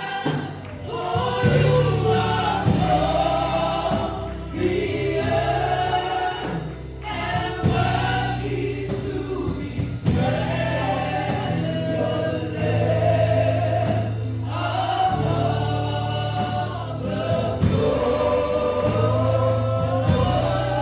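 Gospel worship song: a choir sings with instrumental backing under a sustained bass, in phrases with short breaks between them.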